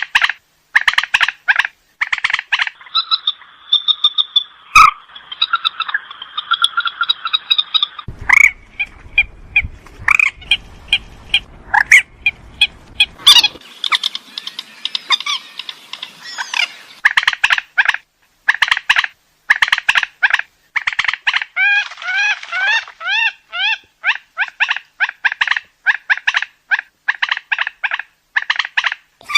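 Purple swamphen calling: a long, dense run of short, repeated notes. A few longer held calls come early on, and there is a quick string of rising notes past the middle.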